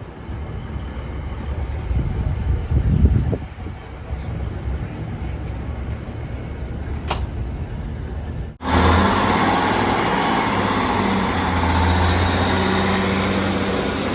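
A low engine rumble, then an abrupt cut about eight and a half seconds in to a louder diesel train engine running with a steady low hum.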